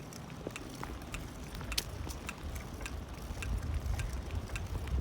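Bicycle being ridden, with scattered clicks and light rattles from the bike, and wind rumbling on the microphone that grows stronger in the second half.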